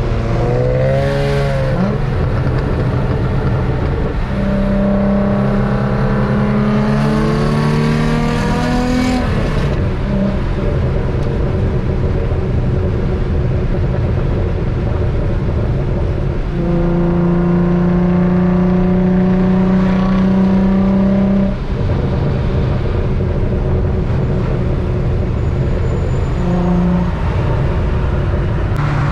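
Infiniti G35 coupe's 3.5-litre V6 engine being driven. It revs up and falls back about a second in, then pulls steadily under load from about five to nine seconds in and again from about seventeen to twenty-one seconds in, with a steady lower drone between.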